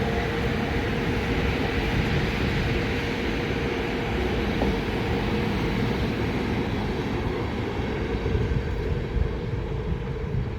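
A train running, with a steady rumble and rolling noise and a steady hum underneath.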